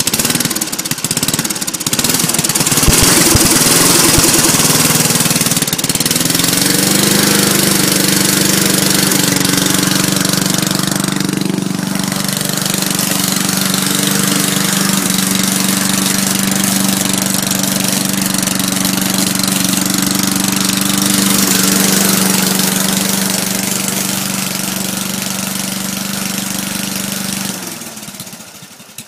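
Old push lawn mower's small engine, fitted with a new exhaust stack, speeding up over the first few seconds and then running steadily at high speed. It slows and winds down near the end.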